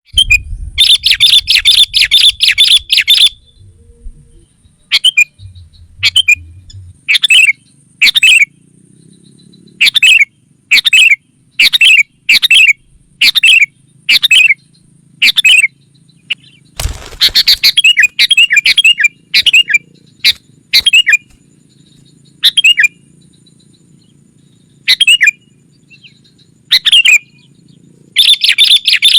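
Sooty-headed bulbul (kutilang) calling loudly, as used for a lure recording. Bursts of rapid chattering notes alternate with single short calls about once a second.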